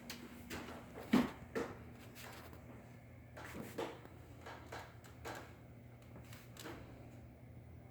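Irregular light knocks and clicks in a small room, about ten of them, the sharpest about a second in, over a steady low hum.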